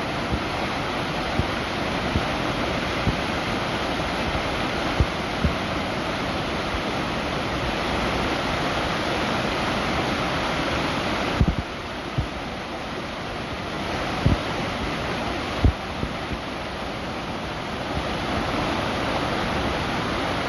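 Waterfall: water falling in a steady, even rush. A few short low thumps stand out here and there, and the rush dips slightly in level for a few seconds past the middle.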